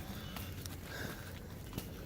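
Boots walking on a damp dirt trail: a few irregular footsteps.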